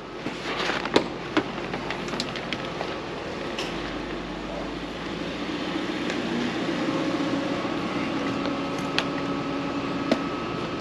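Car engine idling as a steady hum, with a few light knocks.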